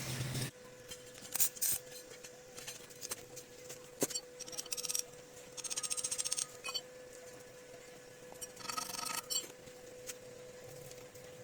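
Light clicks and clinks, with a short run of rapid ratcheting clicks about six seconds in and another brief rattle near nine seconds, over a faint steady hum.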